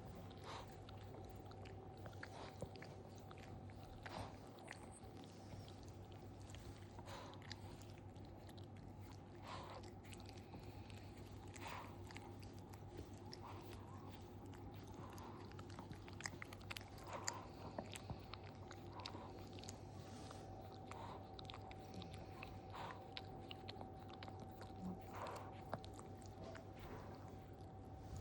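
A dog licking and nibbling at its own fur: small wet chewing and biting clicks, repeated irregularly every second or so, over a faint steady hum.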